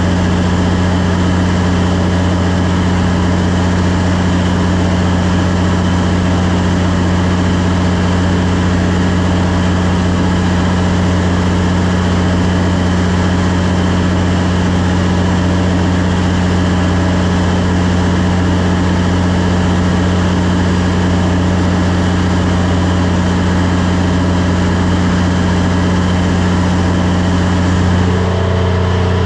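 Cummins 400 kW diesel generator running at steady governed speed under a load bank test, a constant deep hum with engine noise above it. About a second before the end the upper part of the sound shifts slightly.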